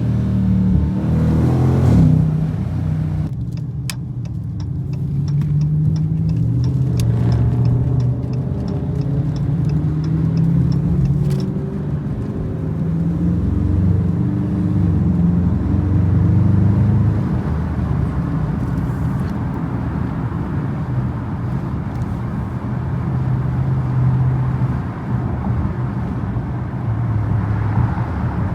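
V8 muscle-car engine running while cruising, its pitch rising with the revs in the first two seconds. A run of regular light ticks comes between about four and eleven seconds in.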